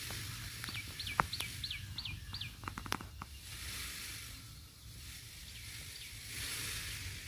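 A bird calling: a quick run of about six short, hooked notes about a second in, with a few sharp clicks around the middle, over a steady low outdoor rumble.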